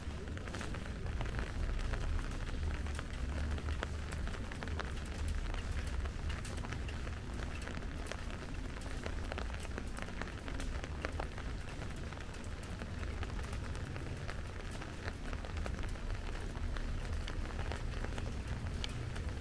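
Steady rain falling, with many fine drop ticks over a constant hiss and a steady low rumble underneath.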